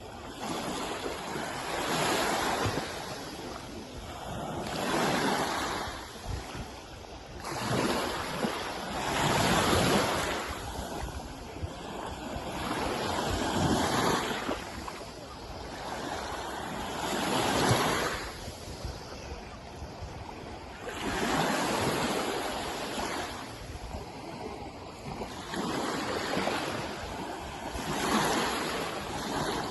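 Sea waves washing in, each surge swelling and falling away every three to four seconds, with wind on the microphone.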